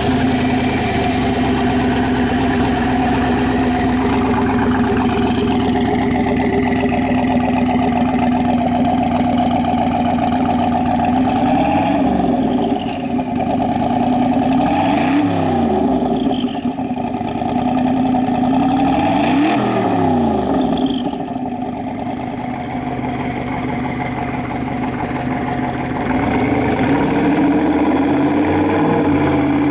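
The 1956 Chevrolet 210's engine idling steadily after being started, with the throttle blipped three times about halfway through, and once more near the end, the revs rising and falling each time.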